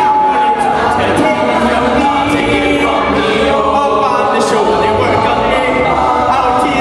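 An a cappella group singing a song in harmony: many voices together, with no instruments.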